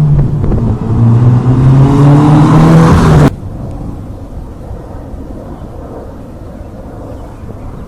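Subaru BRZ's 2.0-litre flat-four engine heard through its dual-exit exhaust, running with a loud drone that climbs in pitch as it accelerates. It cuts off suddenly a little over three seconds in, leaving a much quieter steady rumble.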